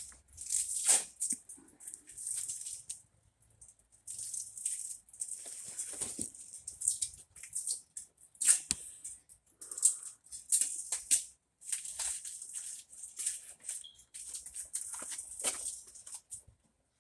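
Irregular rustling and rattling in short bursts of exhaust parts and their packaging being handled.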